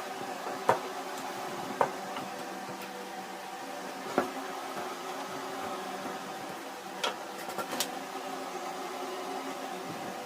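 Steady hum with a few sharp knocks and clicks: single knocks about a second, two and four seconds in, then a quick cluster of clicks near the end, as tools or parts are handled in the workshop.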